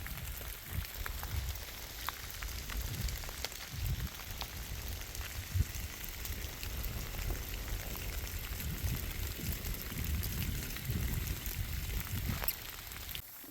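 Steady drizzle falling, with many light drops ticking close by over a low, uneven rumble.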